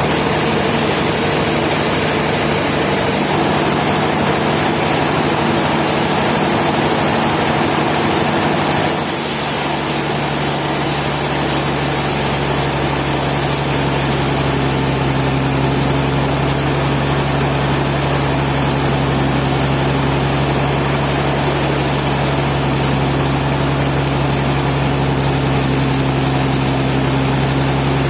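Sawmill engine running steadily, its sound changing about nine seconds in, when a higher hiss joins the steady hum.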